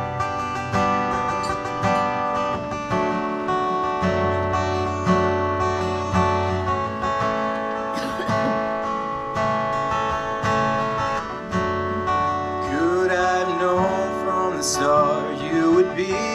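Acoustic guitar strumming steady chords as the intro to a self-written love song; a voice begins singing over it near the end.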